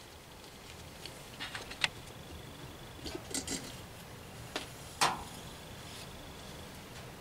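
Scattered light clicks and taps of parts and tools being handled while working on a diesel heater, with the sharpest click about five seconds in.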